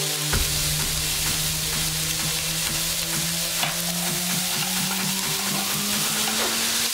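Sausage and vegetables sizzling in oil in a frying pan, with a wooden spatula stirring them and scraping against the pan.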